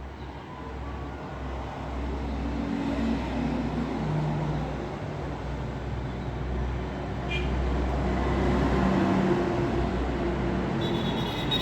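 Road traffic: the hum of vehicle engines and tyre noise on the road, swelling over the first few seconds and then holding steady.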